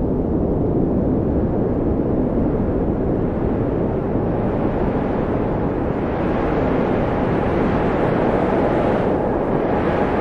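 Steady wind blowing, a low rushing with a faint whistle that climbs slowly in pitch over the second half.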